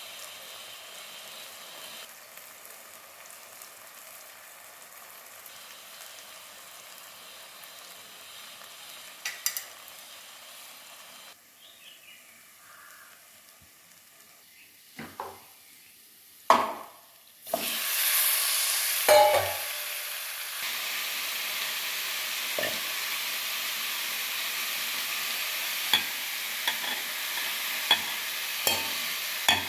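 Food frying and sizzling in a pan, with a few sharp knocks of a utensil against it. Over halfway through the sizzling jumps suddenly much louder and stays as a steady, strong sizzle, with occasional clicks of stirring.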